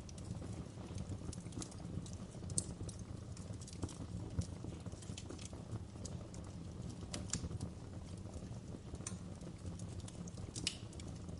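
Wood fire crackling in a fireplace: a steady low rumble of flames with irregular sharp pops and snaps of burning wood.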